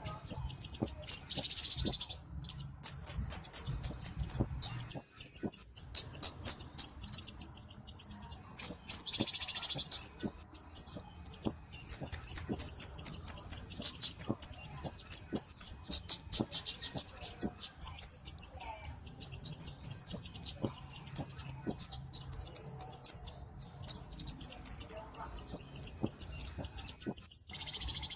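A flowerpecker (cabe-cabean) singing a rapid run of high, thin chirps, about six a second, with a few short breaks.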